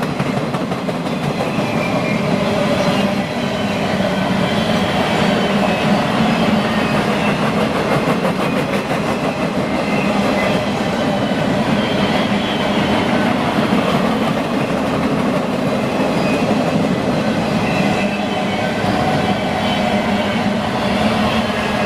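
Freight train cars rolling past at a steady speed, with a continuous rumble of steel wheels on rail.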